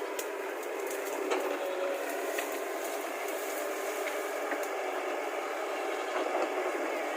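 Excavator engine running steadily, with a few short metallic clanks.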